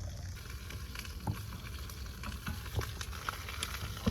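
Steak sizzling on a camp stove grill burner, with scattered pops and crackles over a steady low rumble.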